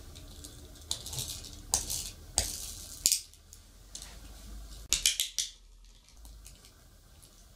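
Several short, sharp clattering scrapes of small hard objects being handled or knocked together, in bursts about 1, 2, 2.5 and 3 seconds in, with a quick cluster of them about 5 seconds in.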